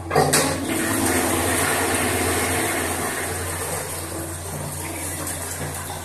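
Toilet flushing: a clunk, then rushing water that slowly eases off.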